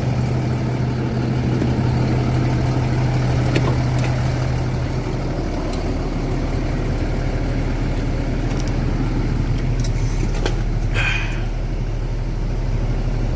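Truck engine idling with a steady low hum, a few light clicks, and a brief rushing noise about eleven seconds in.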